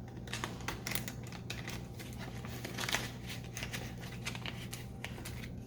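Faint, irregular scratching and rustling of pen on paper as a paper savings tracker is coloured in by hand, with small ticks, over a low steady hum.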